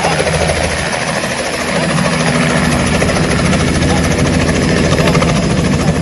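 Helicopter rotor and engine running steadily, the blades beating in a fast, even chop that grows a little louder about two seconds in.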